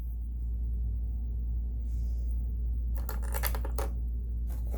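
Small hard parts of a sewing-machine buttonholer attachment clicking and clattering as they are handled: a quick run of clicks about three seconds in and a couple more near the end, over a steady low hum.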